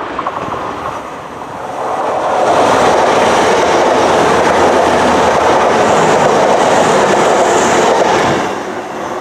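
A train passing close by on the line. Its sound swells over about the first two seconds, holds loud for about six seconds, then drops away quickly near the end.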